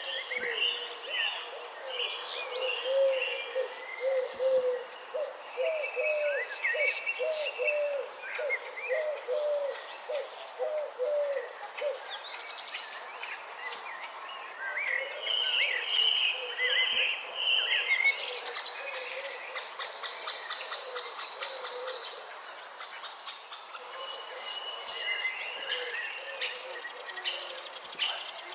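Nature ambience: a steady high-pitched insect drone under several birds chirping and trilling. In the middle a low call repeats quickly about a dozen times.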